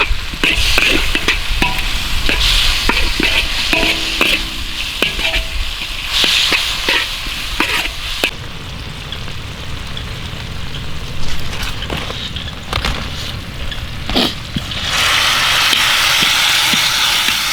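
Food stir-frying in a pan: a utensil scrapes and clacks against the pan over sizzling. Near the end the sizzle turns into a steadier, louder hiss.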